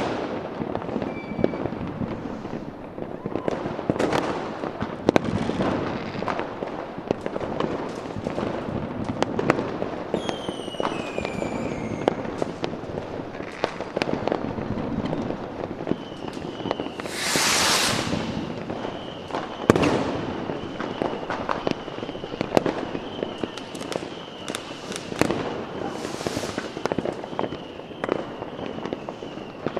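Fireworks going off in an irregular stream of bangs and crackles, with falling whistles about a third of the way in and a loud hiss a little past the middle. From just past the middle, a steady high pulsing tone runs under the bangs.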